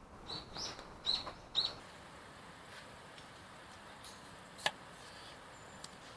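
A small bird calling, four short high chirps in the first two seconds. A single sharp click a little past the middle.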